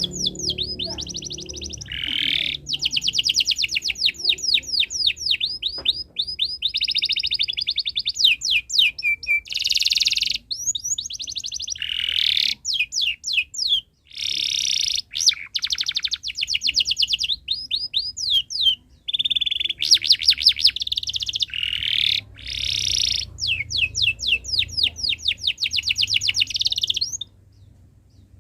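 Domestic canary singing: fast trills and rolling runs of rapid chirps, one phrase after another, with a short break about a second before the end.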